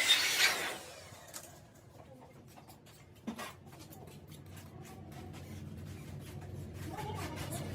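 A loud rasping, rubbing workshop-tool noise dies away in the first second, leaving light clicks and one sharper knock about three seconds in, then a low hum that slowly builds toward the end.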